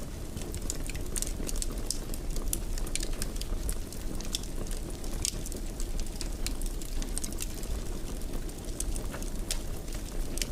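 Wood fire crackling in a fireplace: frequent irregular sharp snaps and pops over a steady low rumble of burning.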